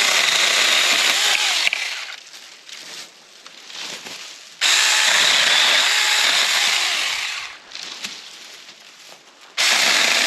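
Cordless electric mini chainsaw running in three bursts as it cuts through tree branches: one already going at the start that tails off by about two seconds in, another starting about halfway through, and a third near the end.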